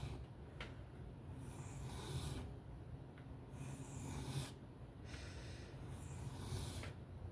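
Knife blade being stroked freehand across a 400-grit sharpening stone, a scraping rasp on each pass, about three strokes each lasting around a second with short pauses between, over a steady low hum. The edge is being refined to clean up the burr.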